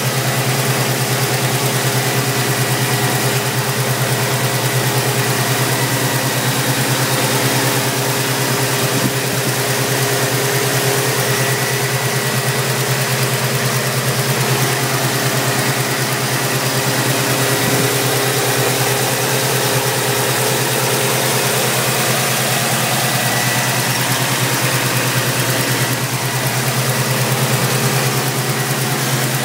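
Chevrolet 350 small-block V8 idling steadily.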